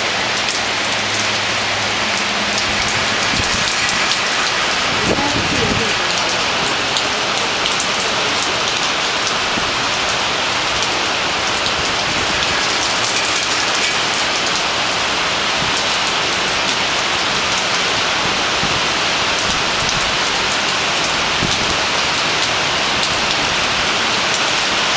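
Heavy tropical downpour: a steady, dense hiss of rain lashing the trees and rooftops below.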